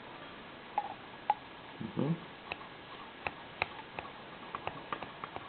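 Light, irregular clicks and taps of small metal parts and hand tools being handled while an automatic transmission valve body is taken apart on the bench.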